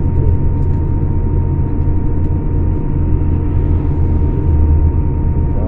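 Scania K410 coach's engine running steadily: a low, even rumble with a thin constant tone above it.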